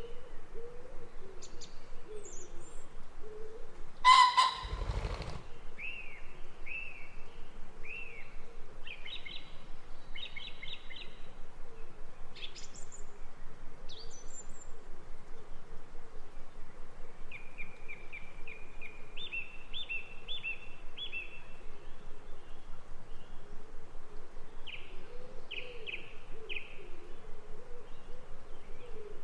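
Wild birds singing in short chirps and trills, with one much louder call lasting about a second, about four seconds in.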